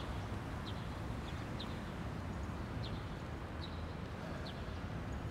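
Small birds chirping in short, high chirps about once or twice a second, over a steady outdoor background hiss with a low rumble.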